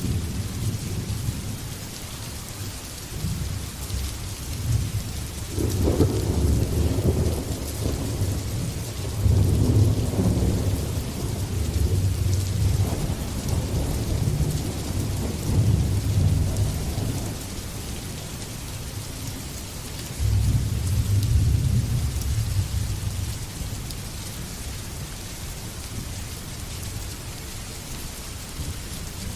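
Steady heavy rain with thunder rolling in long low rumbles. One rumble builds about six seconds in and rolls on for around ten seconds. A second breaks in suddenly about twenty seconds in and fades over a few seconds.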